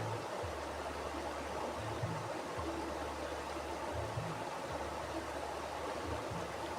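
A mountain river flowing over rocks, a steady rush of water with a low shifting rumble underneath.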